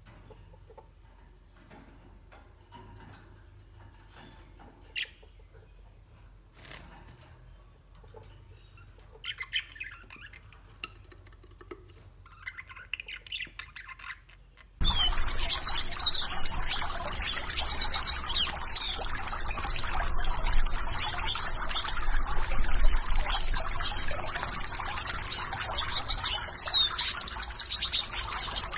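Songbirds chirping: sparse, faint chirps at first, then about halfway through an abrupt cut to a louder recording with a steady background hiss and repeated high, sweeping bird calls.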